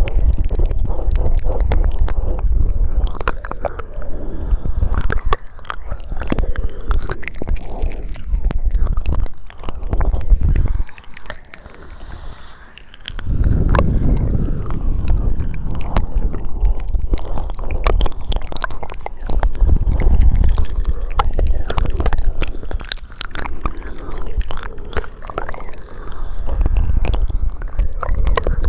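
Close-miked ASMR mouth sounds: rapid wet clicks, smacks and tongue sounds over a low rumble, easing off briefly a little before the middle.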